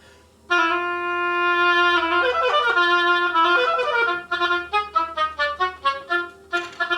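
An oboe playing a passage: a held note, a few slurred notes, then a quick run of short tongued notes at about four or five a second. The tonguing is being worked on for cleaner articulation.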